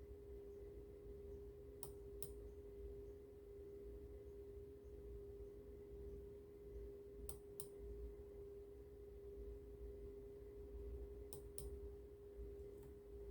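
Samsung washing machine running, heard faintly: a steady hum over a low rumble, with a pair of light clicks three times.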